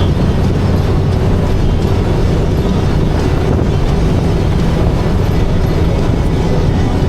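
Motorcycle running steadily at road speed, its engine hum mixed with a loud, even rush of wind.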